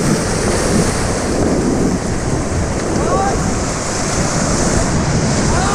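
Loud, steady rushing of whitewater river rapids around a raft, with wind buffeting the microphone and a few brief faint shouts.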